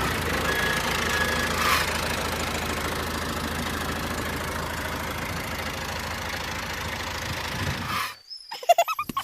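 Mini tractor's small motor running steadily with a fine, rapid chugging rhythm, cutting off suddenly about eight seconds in; a brief cluster of clicks and short tones follows near the end.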